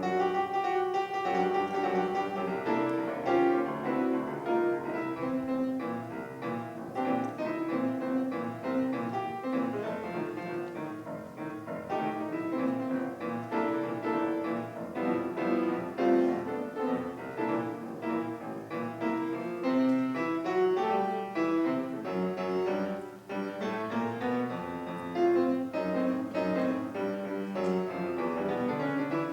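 Piano music, a steady flow of notes without pause.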